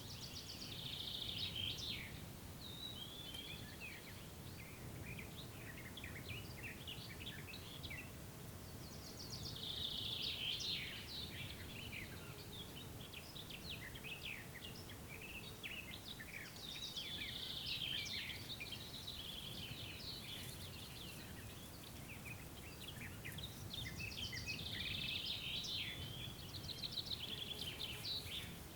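Songbirds singing in a forest clearing: a loud song phrase repeats about every eight seconds, four times, with scattered chirps between, over a steady low background hum of ambient noise.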